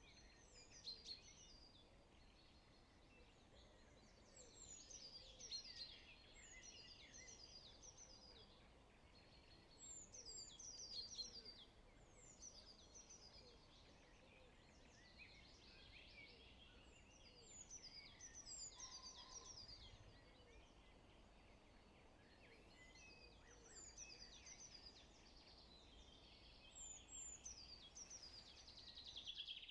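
Faint birdsong: short, high, descending phrases repeated every couple of seconds over a soft steady hiss.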